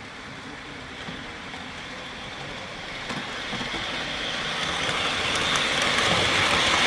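Model train approaching along its track, its wheel-and-motor running noise growing steadily louder, with light clicks from about halfway on.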